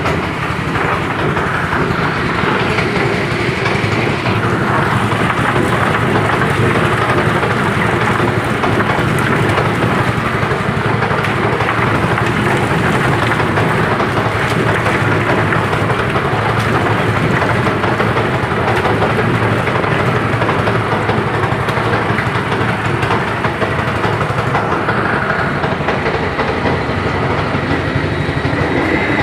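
Chicken feather plucking machine running, a loud steady mechanical noise.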